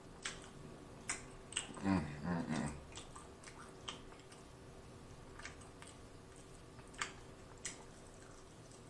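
Close-miked chewing of a chicken wing: scattered wet mouth clicks and smacks, with a brief low hum of the voice about two seconds in.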